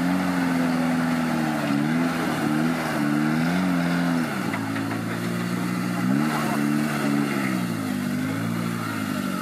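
Off-road 4x4 trial vehicle's engine revving up and down again and again as the throttle is worked over the obstacles. It drops to a lower pitch about four seconds in and climbs again around six seconds.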